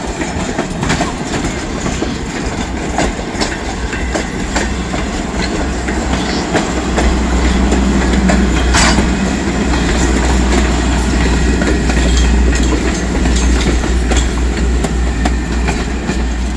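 Vintage passenger coaches rolling past close by, their steel wheels clicking over the rail joints over a steady rumble. The rumble grows heavier about seven seconds in.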